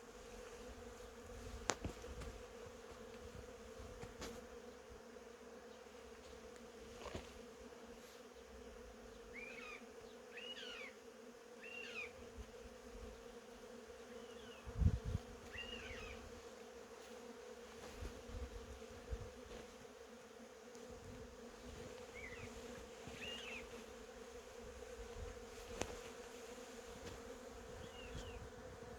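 Honeybees buzzing steadily, a continuous low hum. A few short high chirps come in the middle and near the end, and there is a low thump about halfway through.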